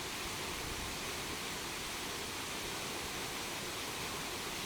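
Steady rushing of a waterfall, an even hiss-like roar of falling water with no change.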